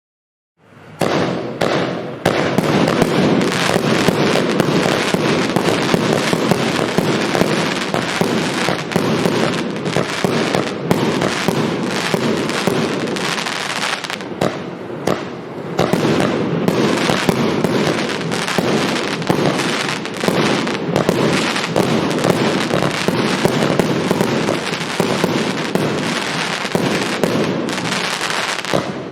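An 80-shot compound fireworks cake (Evolution Fireworks Snowstorm) firing. It starts about half a second in and goes on as a dense, rapid run of shots, with a short lull about halfway through.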